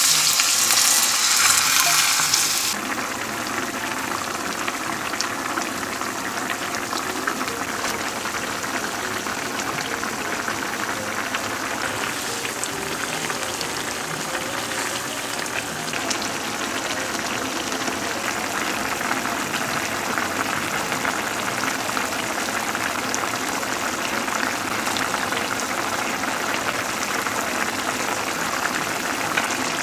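Radish and thin-sliced pork belly sizzling loudly as they are stir-fried in a pan. About three seconds in, the sound drops suddenly to the quieter, steady bubbling of the doenjang stew boiling.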